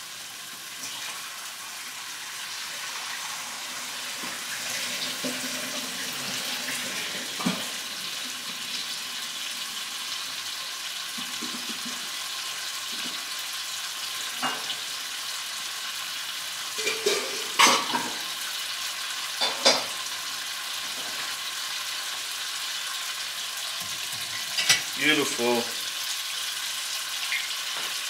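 Tomato sauce sizzling steadily in a wok over a gas flame, with a few sharp knocks of cookware now and then.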